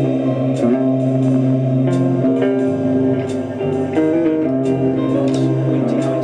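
Guitar music with a bass line: plucked guitar notes and chords ringing over held bass notes, the chords changing every second or so.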